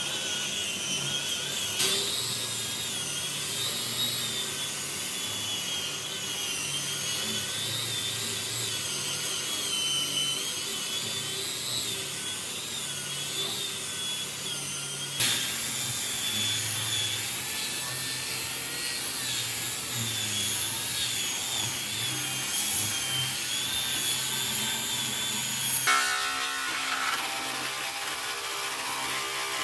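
Electric power tool running steadily on wood, a continuous whine with a wavering pitch. The sound shifts abruptly a couple of times, in the middle and near the end.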